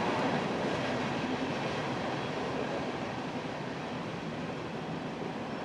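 A passing train: steady noise that slowly fades.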